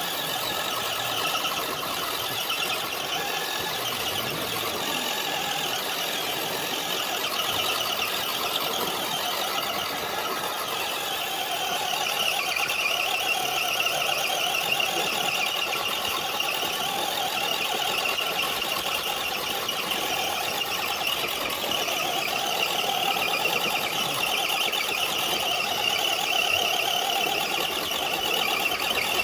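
Axial Wraith RC truck's electric motor and gear train whining steadily as it strains to drag a dead-weight sled, getting a little louder about twelve seconds in.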